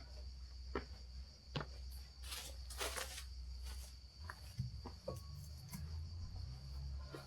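Insects calling in a steady, unbroken high-pitched buzz over a low background rumble, with a few faint clicks and short rustles.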